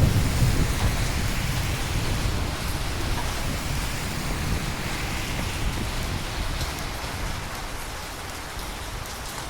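Steady rain falling, with the tail of a thunder rumble that is loud at the start and dies away over several seconds.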